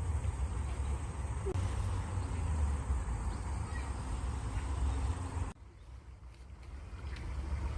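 Nature ambience of running water, a steady rush with a deep rumble, with a few faint bird chirps. The sound drops abruptly about five and a half seconds in, then builds back up.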